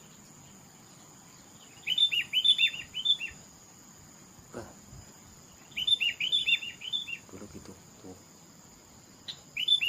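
A songbird singing three phrases, each a quick run of sharply falling whistled notes lasting about a second and a half, about four seconds apart.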